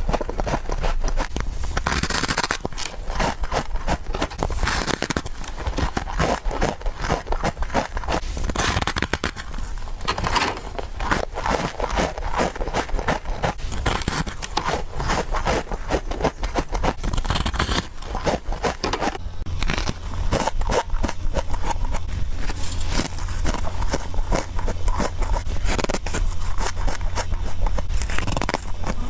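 Fast, continuous biting and chewing of freezer frost: a dense run of crackling, crunching bites.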